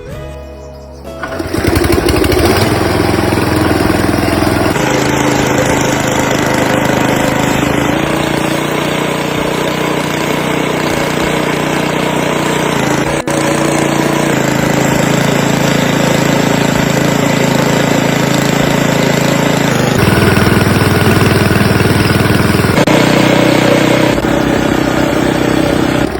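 Motorcycle engine running steadily under load, driving a mill that grinds roasted gram into sattu flour. Its pitch and level shift a few times.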